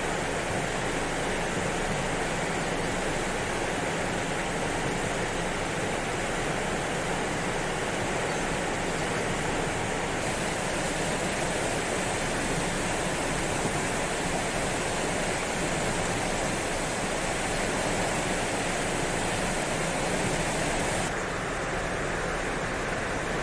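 The swollen Sagami River rushing steadily, running high with floodwater after typhoon rains. The sound changes abruptly twice: brighter about ten seconds in, then duller and a little quieter near the end.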